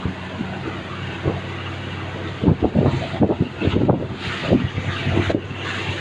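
Small fishing boat's engine running steadily while underway, with wind buffeting the microphone and irregular louder thumps from about halfway through.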